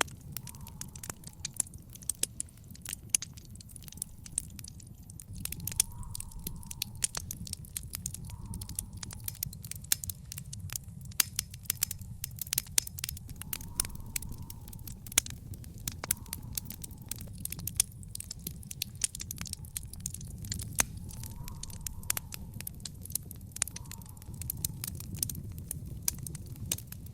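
Wood fire in an outdoor fire pit crackling, with frequent irregular sharp pops over a low steady rumble.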